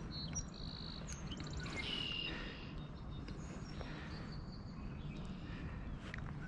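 Songbirds calling: several short high whistled notes and a quick trill in the first two seconds, then a few fainter notes, over a steady low background rumble.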